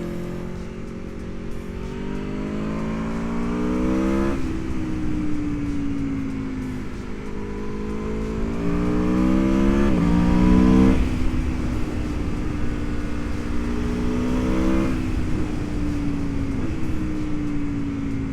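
Aprilia Tuono V4 1100 RR's V4 engine under way, its pitch climbing under throttle and dropping sharply at each of several upshifts, with one stretch of easing off where the pitch slowly falls. A low rush of wind noise runs underneath.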